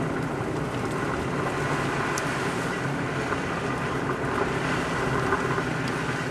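Four-wheel-drive vehicle driving on a snow-covered highway: a steady engine hum under even road and tyre noise.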